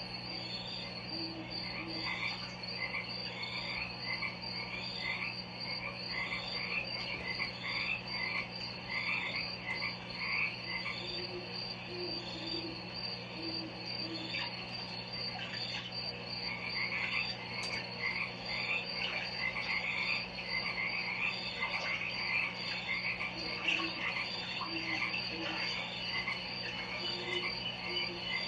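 Chorus of frogs and insects: a steady high insect trill, frogs calling in rows of short chirps about once a second, and now and then low paired croaks, over a faint steady hum.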